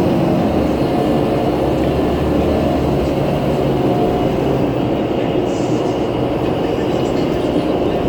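Inside a moving New Flyer C40LF natural-gas transit bus: steady engine and drivetrain drone with low humming tones that shift in pitch, over road noise.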